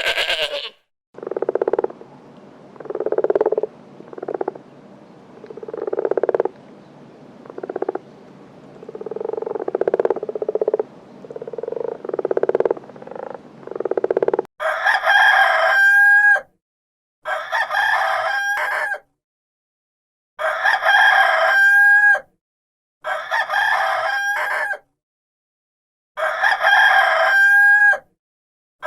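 A rooster crowing five times in the second half, each crow about two seconds long and ending with a bend in pitch. Before that comes a run of about ten lower, shorter animal calls, roughly one every second and a half.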